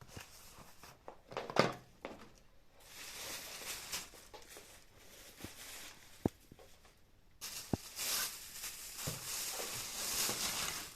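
Packaging being handled and unwrapped: rustling plastic and paper in long stretches, with a few light knocks about a second and a half in, past the middle and toward the end.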